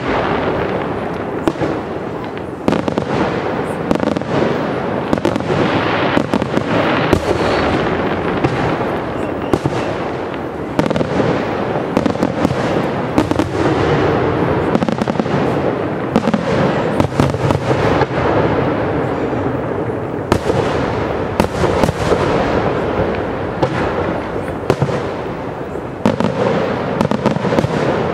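Aerial firework shells bursting in a dense, continuous barrage: many sharp reports come every fraction of a second, overlapping into a steady wash of bangs and crackle with no pause.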